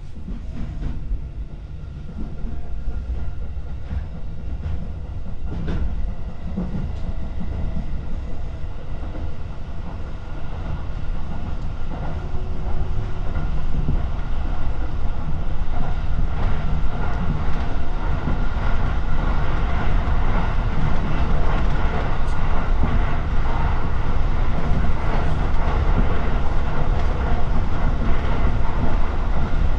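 Electric commuter train running on the JR Joban Line, heard from inside the carriage. Its low rumble grows steadily louder as it picks up speed, with wheels clacking over the rail joints.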